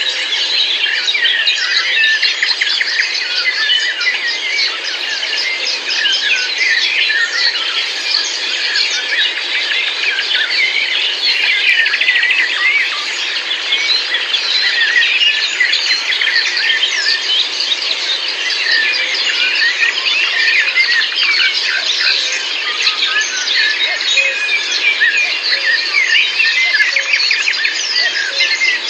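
Many birds singing and calling at once, a dense continuous chorus of overlapping chirps and quick whistled sweeps.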